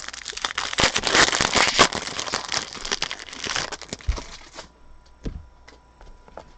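Plastic wrapper of a trading-card pack crinkling and tearing as it is opened, stopping abruptly about two-thirds of the way through, followed by a few soft knocks as the cards are handled.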